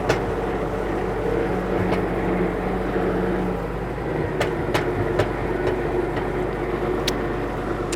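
Tractor engine running steadily at low speed, with a few sharp clicks in the second half.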